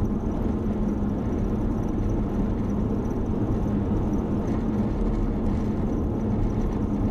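Car driving at road speed: a steady drone of engine and tyres with a constant low hum, heard from inside the cabin.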